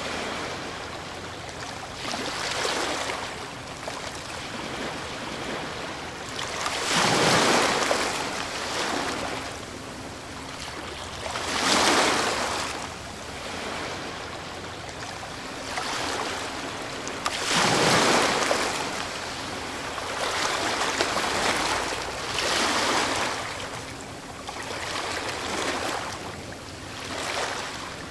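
Ocean waves breaking, one after another: the rush of water swells and fades every few seconds, with some breakers much louder than the rest.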